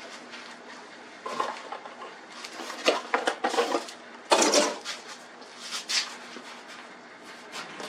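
Metal clinking and rattling as a new garage door roller is worked into its hinge bracket and track: scattered clicks, a quick run of clicks about three seconds in, and a louder scrape a little later.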